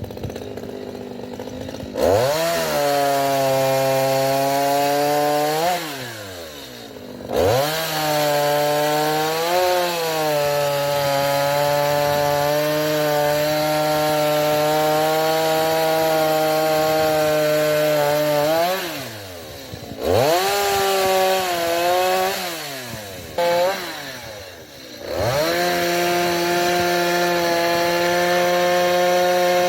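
Gasoline chainsaw revving to full throttle and cutting through oak firewood logs, dropping back toward idle between cuts. The longest cut runs about ten seconds, with shorter cuts and a brief blip of throttle between them.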